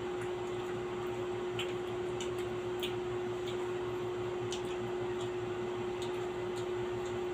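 Steady background hum with one constant tone, under faint scattered clicks and light eating sounds, about half a dozen small ticks spread through.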